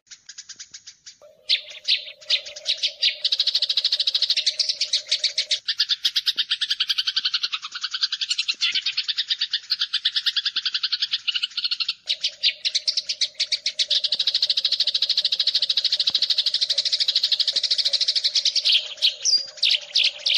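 Eurasian tree sparrows fighting: a fast, continuous chatter of high chirps, many notes a second.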